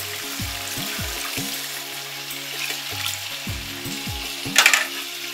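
Spiced chicken sizzling as it is sautéed with a little water in a large aluminium pot over a wood fire, with a metal ladle stirring, and one louder burst of noise near the end.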